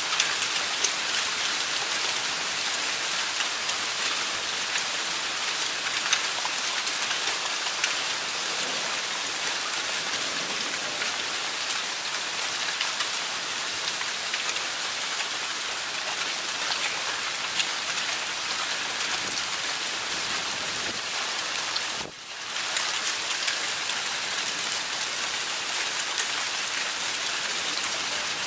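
Heavy rain pouring down in a storm, a steady dense hiss full of fine ticks from drops and small hail striking asphalt roof shingles. The sound dips briefly once, about three quarters of the way through.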